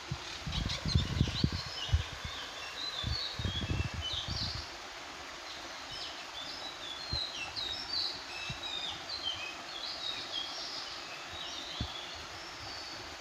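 Small birds giving many short, quick chirps over the steady rush of a small forest waterfall, with a few low thumps in the first few seconds.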